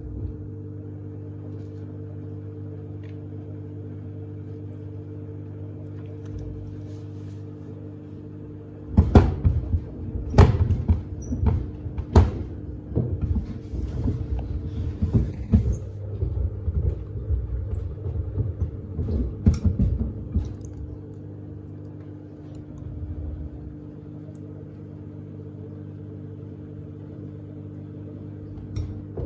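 Samsung WD70T4047CE washing machine's drum motor humming steadily with sneakers tumbling inside. From about nine seconds in, for roughly twelve seconds, the sneakers knock and thud irregularly against the drum and door glass as the drum turns, then the hum goes on without the knocks.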